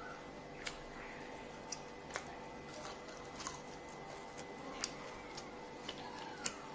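Someone chewing crispy fried chicken: faint, scattered crunchy clicks at irregular gaps over a low steady hiss.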